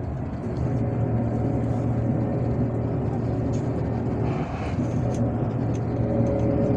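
Cabin sound of a MAZ-257 bus under way: a steady engine drone with road noise. About four and a half seconds in there is a short hiss, and the engine note dips and then settles at a new pitch.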